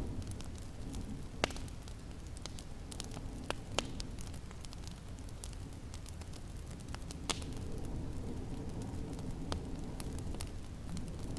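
Wood fire crackling in a fireplace: irregular sharp pops and snaps, a few louder ones, over a steady low rumble of wind.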